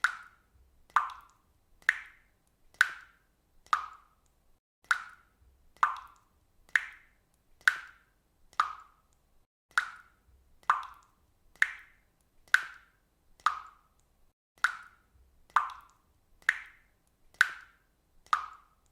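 Water dripping steadily, one drop about every second, each a short, clear plop.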